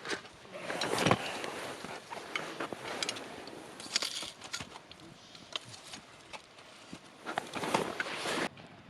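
Wood campfire crackling and popping, with sharp snaps over a noisy rush of flame that swells about a second in and again near the end, then drops away suddenly.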